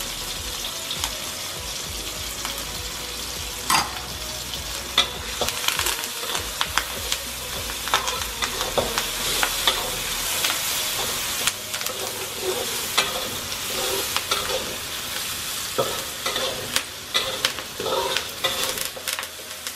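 Shallots, garlic, chillies and curry leaves sizzling in hot oil in a wok, while a metal spatula stirs them, scraping and clicking against the pan many times.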